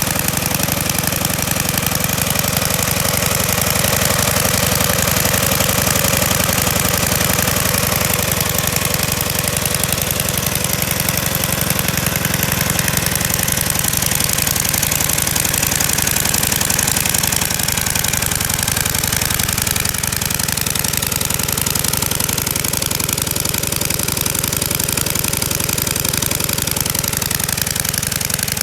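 The small single-cylinder engine of a 1970 Fox Condor minibike running steadily, brought back to life after sitting for decades.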